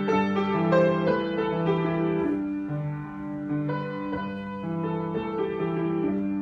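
Solo piano improvisation: sustained chords over a repeating low bass note, with melody notes struck every half second or so.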